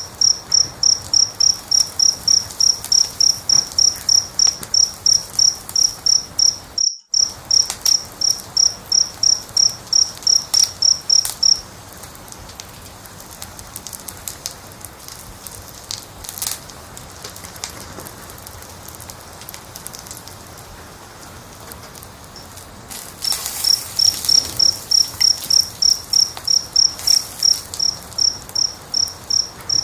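A cricket chirping in a steady rhythm, about three high chirps a second, over the pops and crackles of a wood fire. The chirping stops for about ten seconds in the middle, leaving only the crackling, and starts again near the end; about seven seconds in, all sound cuts out for a split second.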